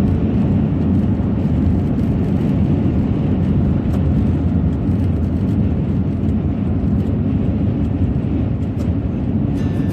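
Steady low road and engine drone inside a van at highway speed.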